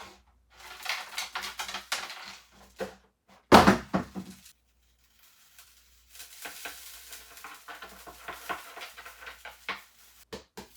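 A pick tool scraping and prying dried mud, sand and pebbles out of the tread of a sneaker's rubber outsole, with small bits of grit clicking down onto the table. There is one loud knock about three and a half seconds in, then a brief pause before the scraping picks up again.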